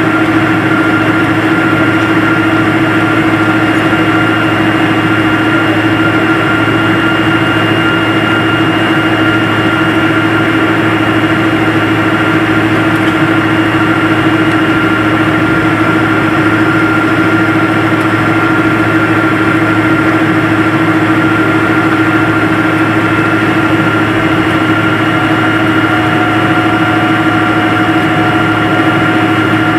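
Airliner's jet engines running steadily, heard from inside the cabin: an even hum with steady whining tones over a rush of noise.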